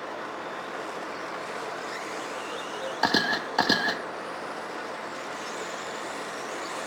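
1/10-scale 13.5 electric stadium trucks running laps on a dirt oval, a steady hiss of motors and tyres. About three seconds in comes a quick run of short, sharp beeps.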